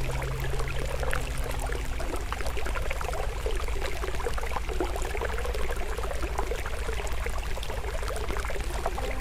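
Stream water flowing steadily, with a wood fire crackling and popping in many small sharp snaps.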